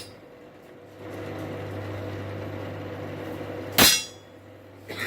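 A single hammer blow on a chisel, marking a steel bar where it will be cut, with a short metallic ring. A steady low hum starts about a second in and runs underneath.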